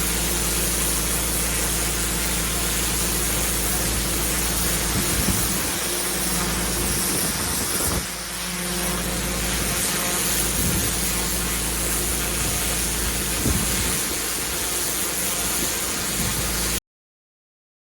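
Pressure washer running steadily, an engine sound under a hiss of water spray. The level dips briefly about eight seconds in, and the sound cuts off abruptly near the end.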